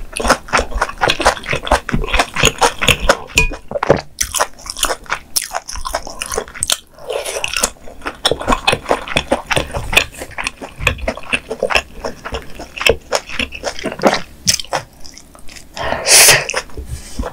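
Close-miked chewing of a mouthful of mala xiang guo stir-fry: a fast, dense run of small wet clicks and smacks. Near the end there is a louder, noisier burst as a bite of rice is taken.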